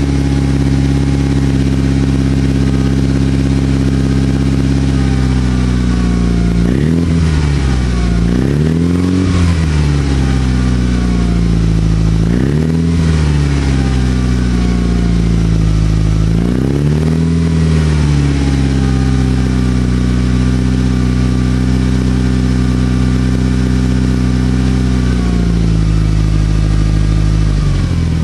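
Mitsubishi Lancer Evolution VIII MR's turbocharged four-cylinder engine, forged and fitted with a C-Tech exhaust manifold and Milltek exhaust, running at steady held revs. Its pitch dips and climbs back three times partway through, then drops near the end.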